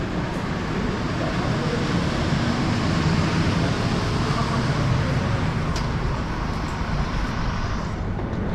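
Steady rumble and hiss of a train moving along a station platform, swelling a little in the middle and dropping off near the end.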